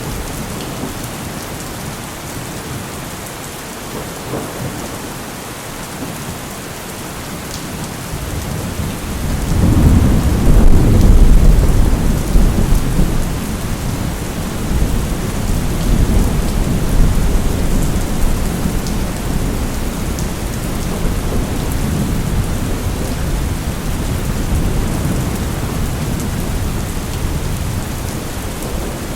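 Steady heavy rain with a long roll of thunder that builds about a third of the way in, is loudest a few seconds later, then rumbles on more softly under the rain.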